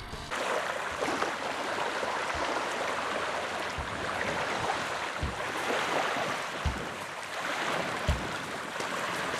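Water rushing and splashing along a moving boat, with a low thump about every second and a half.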